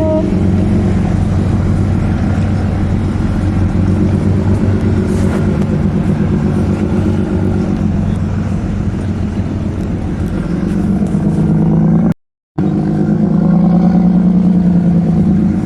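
Boat engine droning steadily with a deep, even hum, over wind and water noise. It breaks off briefly about twelve seconds in and comes back at a slightly different pitch.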